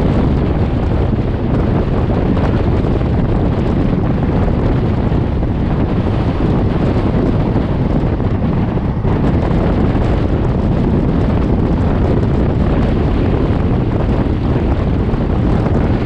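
Wind rushing over the microphone of a moving express train, over the steady rumble of the train running on the rails.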